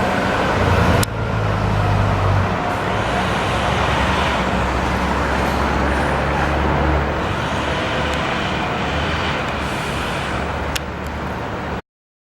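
Bus engine running with a steady low hum and road noise, with two sharp clicks, one about a second in and one near the end. The sound cuts off abruptly just before the end.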